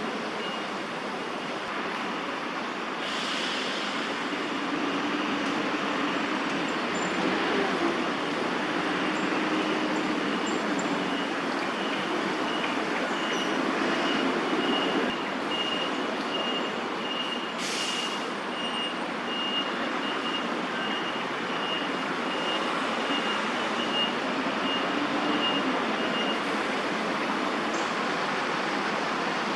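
Steady city traffic noise with engines passing, and a vehicle's reversing alarm beeping about twice a second for some fourteen seconds mid-way. Two short hisses stand out, one early on and one about eighteen seconds in.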